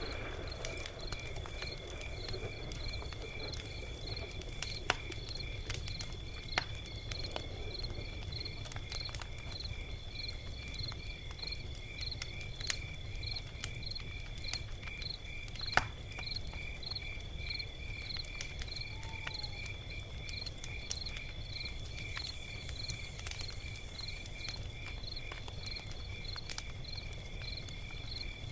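Log fire crackling, with sparse sharp pops over a steady low rumble; the loudest pop comes about halfway through. Crickets chirp in a steady, even rhythm throughout.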